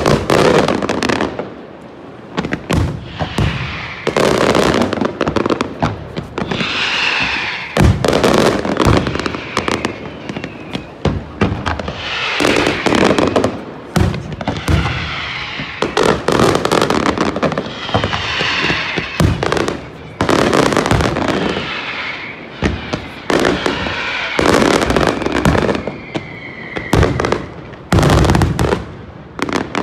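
Fireworks display: a dense, irregular run of bangs from bursting shells, with crackling between them.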